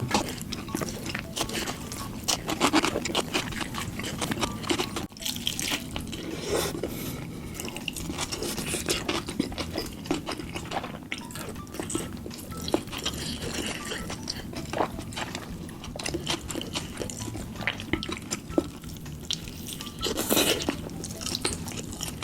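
Close-miked wet chewing and mouth sounds of someone eating chicken in sauce: a continual string of quick sticky clicks and smacks.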